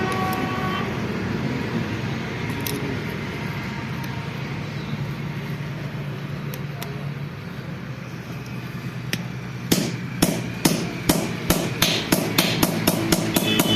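A steady low rumble, then a run of about a dozen sharp hammer blows on metal, getting quicker, as a part is tapped into a Massey Ferguson tractor gearbox that has not yet seated.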